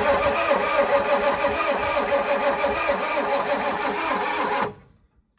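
Starter cranking a Ford 7.3 IDI V8 diesel with an even, rhythmic chug, without the engine catching; the cranking stops suddenly near the end. Air in the freshly primed fuel system keeps it from firing.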